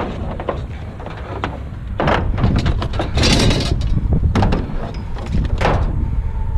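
A series of knocks and a scraping clatter about three seconds in, from objects being handled, over a steady low rumble.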